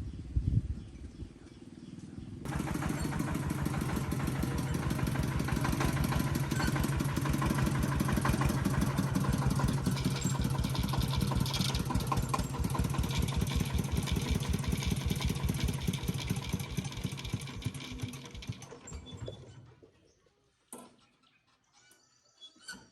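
Small tractor engine running with a fast, even firing rhythm. It cuts in suddenly about two and a half seconds in, runs steadily, then dies away near the end, followed by a couple of faint clicks.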